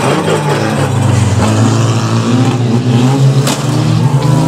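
Engines of several banger race cars revving together as they shunt into one another in a pile-up, with one sharp crash about three and a half seconds in.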